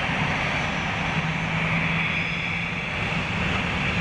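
Airliner jet engines running, a steady rush of noise with a band of whine high up and a low hum.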